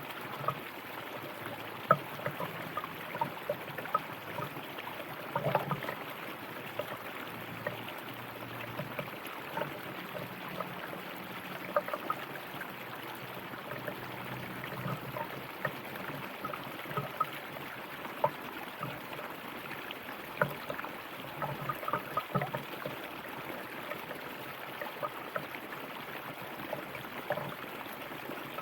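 A river or stream flowing over stones: a steady rush of running water with frequent small splashes and gurgles.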